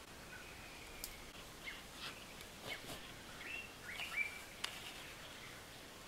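Faint outdoor ambience with a few short bird chirps clustered about three and a half to four seconds in, and a couple of sharp clicks.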